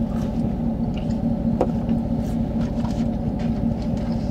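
Steady low hum of a truck running while parked, heard inside the cab, with a few small clicks and rustles of food being handled and eaten.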